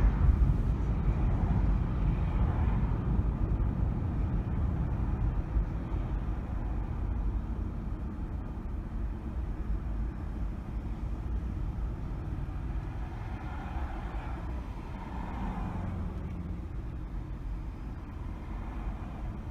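A car driving in city traffic: a steady low rumble of engine and tyre noise that slowly grows quieter, with a few faint swells of other traffic later on.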